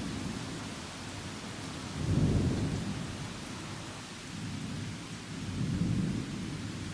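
Heavy rain hissing steadily while thunder rumbles low, swelling twice, about two seconds in and again near the end.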